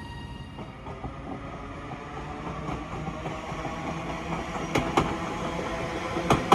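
A train approaching and running past, its rumble growing louder, with sharp clicks of the wheels over rail joints near the end.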